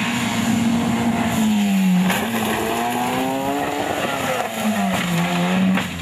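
Rally car engine at full throttle on a gravel stage, its pitch falling as the driver lifts about a second and a half in, climbing again, then dropping once more near five seconds, with a few sharp cracks.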